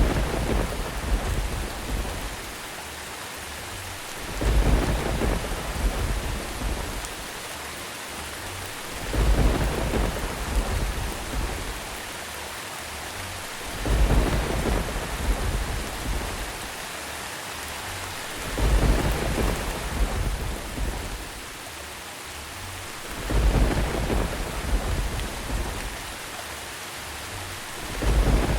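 Thunder and steady rain. Deep thunder rumbles come at even intervals of about four and a half seconds, each swelling suddenly and dying away over a couple of seconds, over a constant hiss of falling rain.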